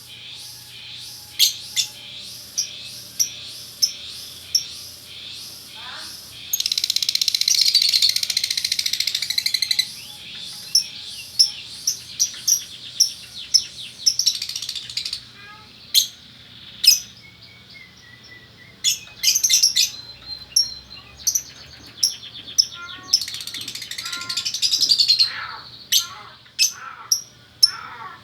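Lovebirds calling: a steady string of short, shrill chirps, broken twice by long runs of fast, rattling chatter, about seven seconds in and again near the end.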